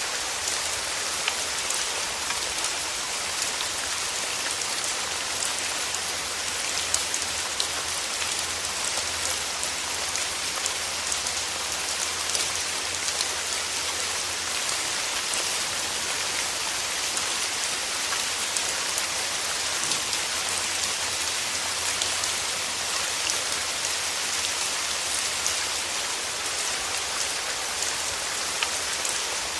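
Steady rain falling on a surface, with individual drops ticking through an even hiss.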